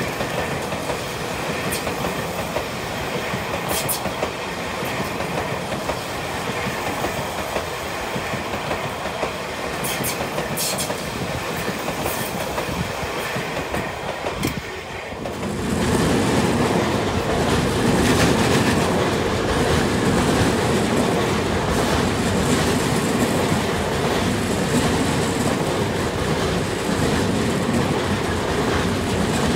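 Tobu 50000-series electric train running past, with a few sharp wheel clicks in the first half; the running noise steps up and grows louder about halfway through and stays loud.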